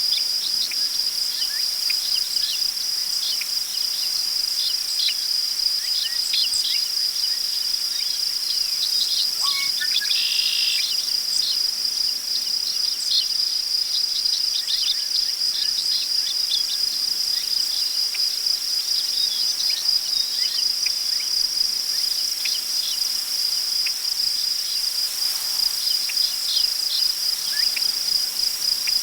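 Crickets chirring in a continuous high-pitched trill, with many short bird chirps scattered over it and one brief, fuller bird call about ten seconds in.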